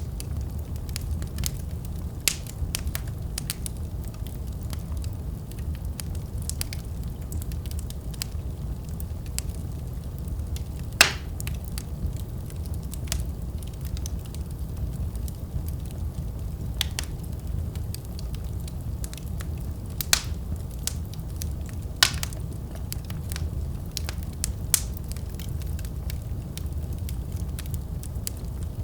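Wood fire in a fireplace crackling, over a steady low rumble of the flames, with scattered sharp pops. A louder pop comes near the middle, and two more come a little later.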